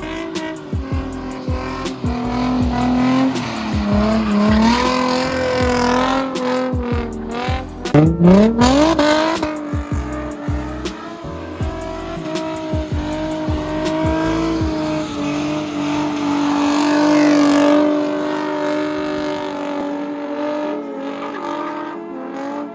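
Car engine revving hard while the car is drifted, its pitch rising and falling and then held high for long stretches, with tyres squealing. A sharp rev climb comes about eight seconds in.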